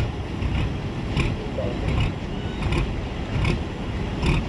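Tractor engine running with a steady low rumble, wind buffeting a body-worn microphone, and light ticks or rustles recurring about every half to three-quarters of a second.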